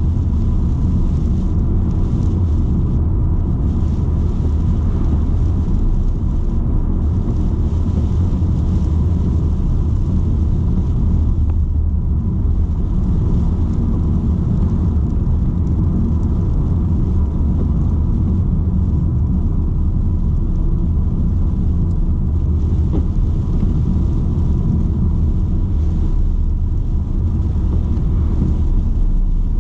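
BMW 120d's four-cylinder turbodiesel and road noise while driving, a steady low drone that holds even throughout with no revving or gear changes standing out.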